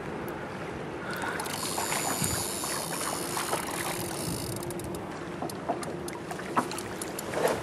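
Steady rush of fast-flowing river water, with a few short clicks.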